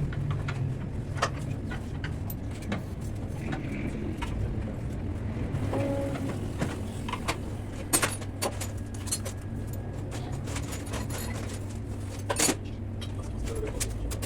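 Scattered sharp metallic clicks and knocks of work on a car, the loudest about 8 seconds in and again near 12 seconds, over a steady low rumble.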